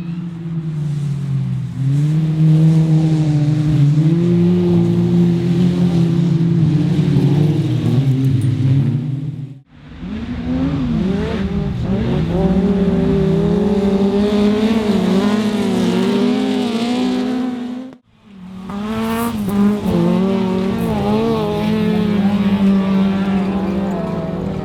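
Autograss race car engines running hard, the pitch rising and falling with the throttle. The sound breaks off and starts again twice, about ten seconds in and again near eighteen seconds.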